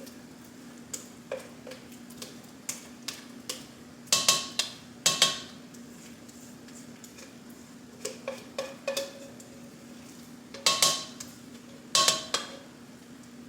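A utensil scraping and knocking against a bowl and pot as mashed potatoes are scooped back into the pot: light scrapes and clicks, with four louder ringing clanks, two about four to five seconds in and two more near the end.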